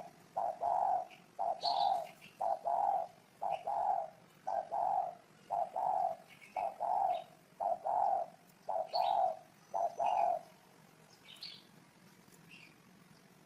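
Spotted dove cooing, a steady run of low repeated coos that stops about ten seconds in. Faint high chirps of small birds go on throughout.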